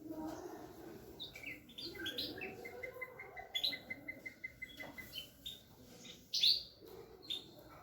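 Bulbul singing: a string of short whistled chirps, with a quick, even run of repeated notes in the middle and the loudest chirp near the end.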